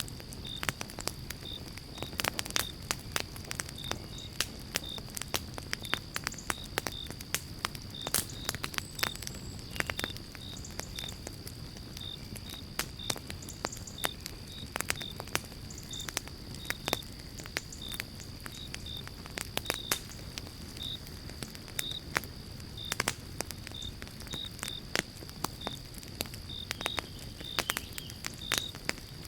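Pine-log campfire crackling, with irregular sharp pops over a low steady rumble of burning. A cricket-like insect chirps in short notes at an even pace, about one or two a second, over a steady high whine.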